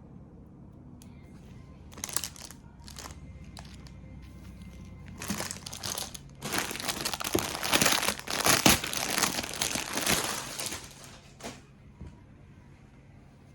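Crinkling and rustling of packaging being handled, in irregular bursts that start about two seconds in, grow busiest and loudest through the middle and die away near the end.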